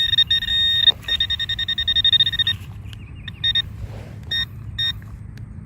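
Metal detector sounding on a target: a high tone that chatters rapidly on and off for about two and a half seconds, then breaks into a few short separate beeps. The tone is going off everywhere over the spot.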